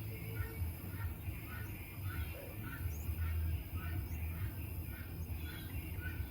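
A bird calling over and over, about two short chirps a second, over a steady low hum.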